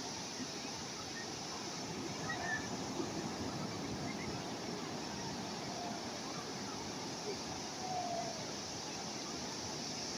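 Calm sea waves washing steadily, an even wash of water noise, with a few faint short pitched sounds in the distance over it.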